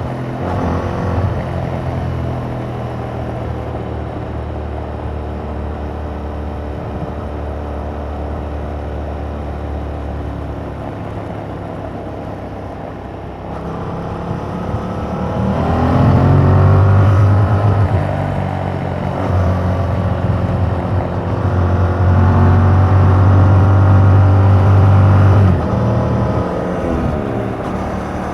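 2021 Yamaha MT-07's 689 cc parallel-twin engine through its stock exhaust, riding at a steady speed. About halfway it accelerates hard, rising in pitch and growing louder. It holds under load through gear changes and eases off near the end.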